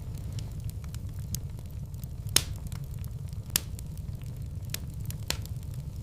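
Wood fire in a fireplace crackling: scattered sharp pops over a steady low rumble, with two louder pops a little after two seconds in and at about three and a half seconds.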